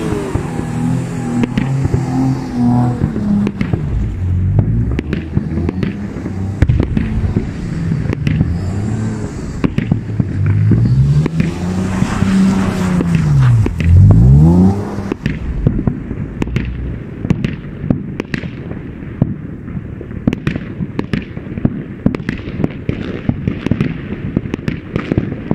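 Audi A4 B6 3.0 V6 quattro engine revving up and down repeatedly as the car slides on snow, loudest at about fourteen seconds. Fireworks bang and crackle throughout, and after about fifteen seconds the engine fades and the fireworks pops take over.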